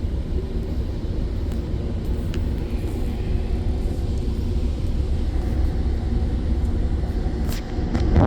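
Steady low rumble of a GO Transit diesel passenger train standing at the station, heard from inside the coach.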